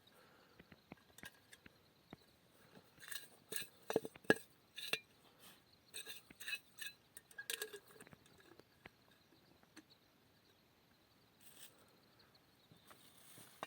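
Light clinks and taps of dishes or utensils being handled, a quick cluster of a dozen or so between about three and eight seconds in, then a few faint ones near the end.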